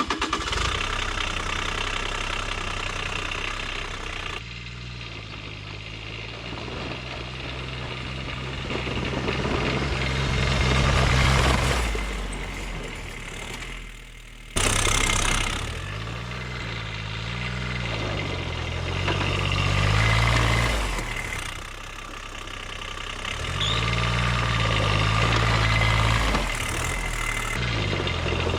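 Small diesel engine of a diesel-swapped Power Wheels ride-on, fitted with a muffler, running under throttle while driving uphill. Its pitch holds steady for a stretch, then rises and falls several times as it is throttled up and eased off.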